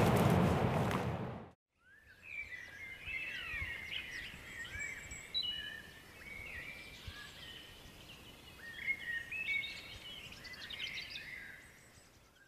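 Songbirds chirping and whistling: a busy run of quick, overlapping calls that fades out near the end. It is preceded by about a second and a half of loud, even rushing noise that cuts off abruptly.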